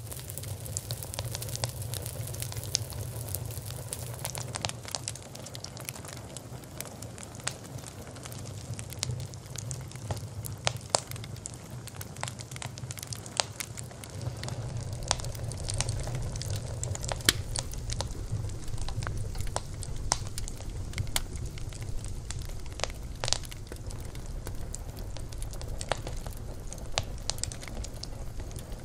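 Wood fire burning, with a steady low rumble of flame and frequent irregular crackles and sharp pops.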